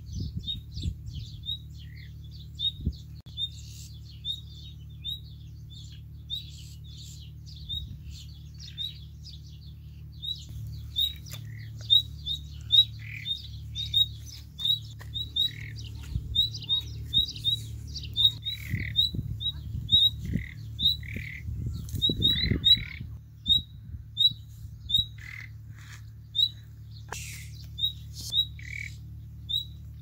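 Birds calling: short, high chirps repeating every half second to a second, with other lower calls mixed in and growing busier about ten seconds in. A low steady hum runs underneath.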